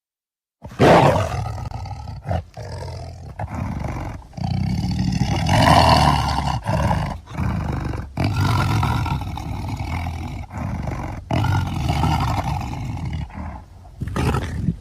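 Tiger roaring in a series of long, loud calls with brief breaks between them, starting about a second in after a moment of silence.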